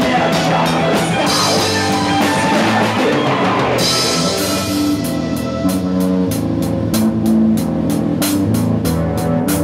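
Rock band playing: guitars and a drum kit, with the drum hits turning into a steady, clearly marked beat about halfway through.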